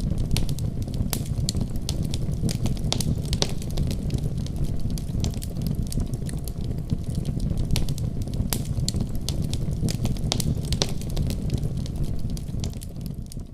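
Wood fire crackling, with irregular sharp pops over a steady low rumble, fading out at the very end.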